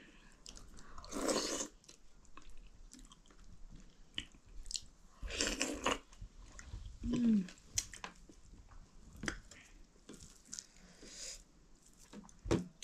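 Close-miked chewing and lip smacking of people eating maize dhido with chicken, with a few louder bites or crunches, notably about a second in and about five and a half seconds in.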